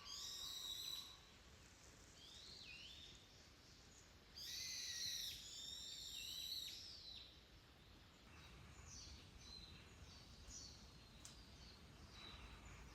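Wild birds calling: a series of harsh, sliding calls, loudest about half a second and again four to five seconds in, followed by fainter short chirps.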